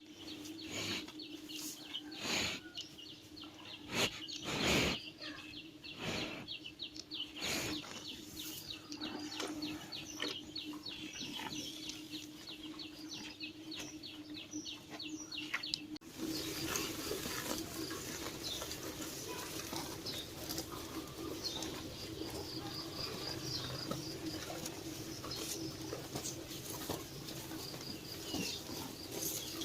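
Birds chirping in quick runs of high notes, with fluttering and knocks, over a steady low hum. The sound changes abruptly about halfway through to a noisier scene.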